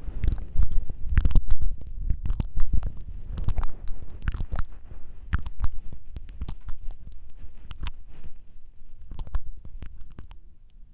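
Close-miked ASMR mouth sounds: quick, wet tongue flutters and clicks coming in irregular runs, with low thumps from the mouth being right on the microphone. The clicks are densest in the first few seconds and thin out towards the end.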